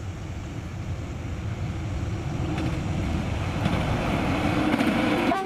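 Train running on the track, a steady rumble that grows gradually louder, with a low hum rising out of it in the second half.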